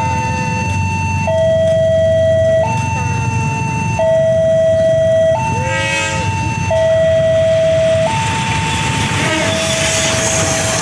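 Railway level-crossing warning alarm sounding a steady two-tone signal, alternating between a higher and a lower tone about every second and a half. The noise of an approaching train builds up over the last few seconds.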